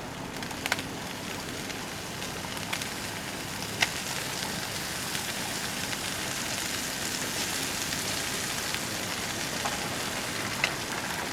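Wood campfire burning: a steady hiss with a few sharp crackling pops.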